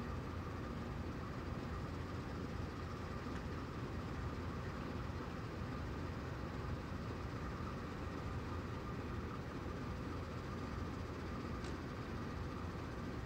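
Freight train rumbling steadily, with a faint tick near the end.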